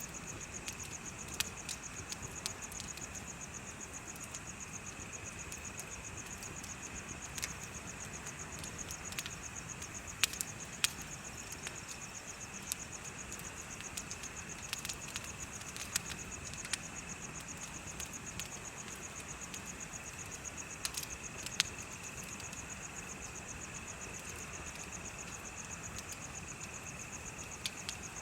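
Bonfire crackling with irregular sharp snaps over a steady chorus of chirping insects: one high, rapid trill and a lower, steady chirring.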